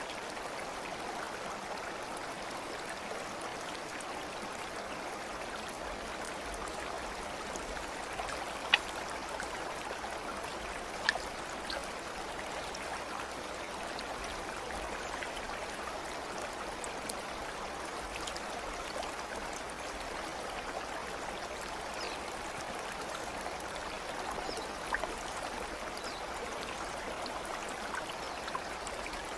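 Steady rushing of a flowing stream, with a few sharp drips or plinks standing out, the loudest about nine and eleven seconds in.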